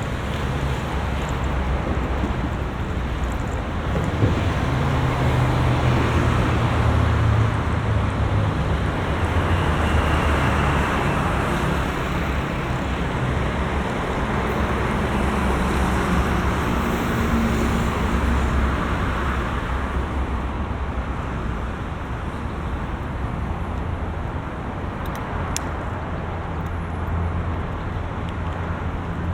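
Road traffic: a steady rush of car tyres and engines, swelling and easing as vehicles go by.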